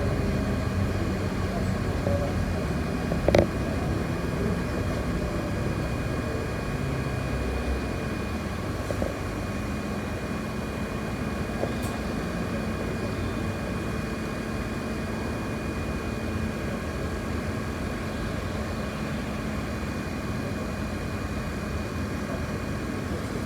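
City bus heard from inside the cabin: a steady engine rumble with a thin high whine running under it. A sharp click comes about three seconds in.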